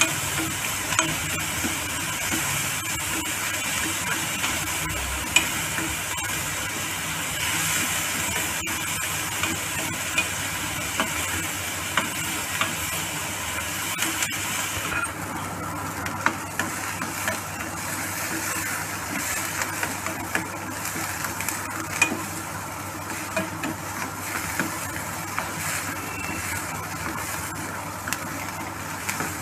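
Chopped onion and green chilli being stir-fried in an aluminium kadhai: a steady sizzle with a metal spatula scraping and tapping against the pan. About halfway through, the hiss of the sizzle drops and the scraping and taps stand out more.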